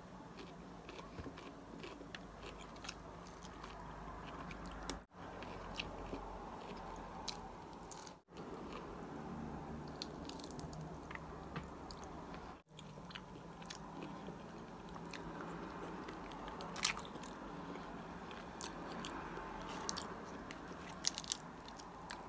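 A person chewing crisp raw salad vegetables such as lettuce and cucumber close to the microphone, with many small crunches and wet chewing sounds. The chewing is broken by three brief silent gaps.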